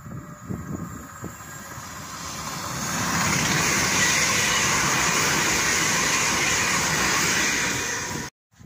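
London Northwestern Railway Class 350 electric multiple unit running through the station at speed. Its wheels and the air rushing past make a steady noise that builds over the first few seconds, holds loud, then cuts off abruptly near the end.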